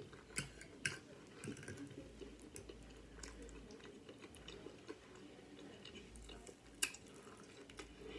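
A person quietly chewing crispy chicken salad, with a few faint sharp clicks, the sharpest near the end.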